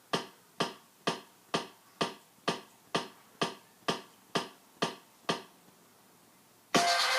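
A steady series of sharp clicks, about two a second, stops about five seconds in. After a short quiet gap, loud electronic dance music starts near the end.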